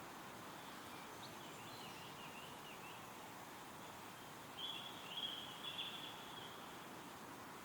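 Wind rustling through trees with small songbirds calling: thin, high twittering notes between one and three seconds in, then a louder burst of song a little past the middle.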